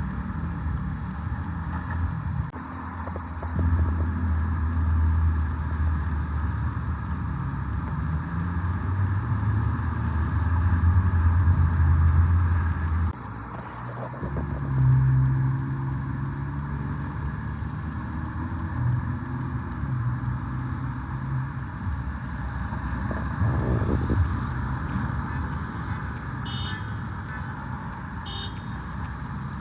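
City street traffic: a loud low engine rumble builds and runs for about ten seconds, then stops abruptly, and lighter traffic noise goes on with vehicles passing. Two short high beeps sound near the end.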